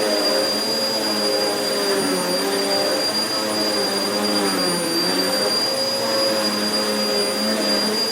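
Vacuum cleaner running steadily over carpet with a high whine; the motor's pitch dips briefly twice as it works the carpet.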